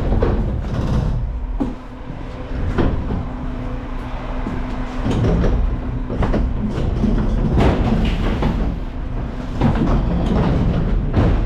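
Garbage truck running with its hydraulics working, with a steady low rumble and repeated metal clanks and rattles throughout.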